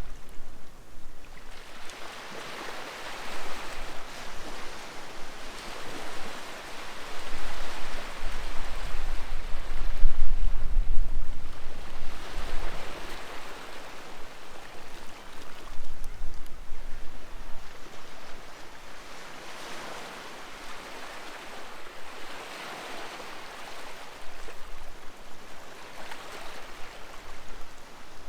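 Sea waves breaking and washing up on the shore, swelling and easing in surges every few seconds. The loudest surge, about ten seconds in, carries a low rumble.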